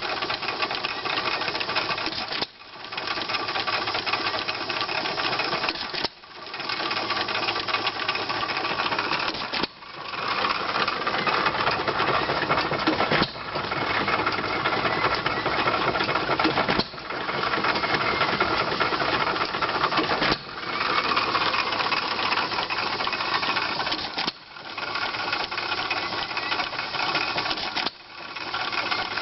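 A 2 hp Jaeger hit-and-miss engine driving an 1870s E. Van Winkle cotton gin, its rusty gin saws being turned to clean them. The result is a dense, fast mechanical clatter that drops away briefly and builds back about every three and a half seconds.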